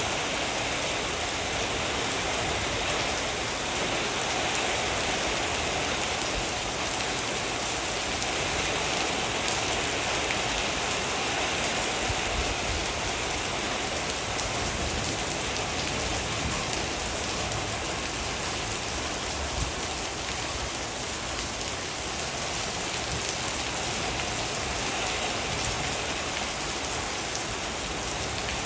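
Heavy rain falling steadily, a dense, even patter of drops hitting a surface.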